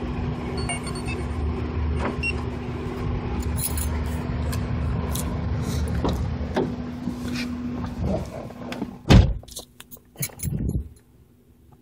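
Remote-started car engine idling steadily, with clicks from handling the door. About nine seconds in a car door shuts with a loud thump, and after that the engine is heard faintly from inside the closed cabin.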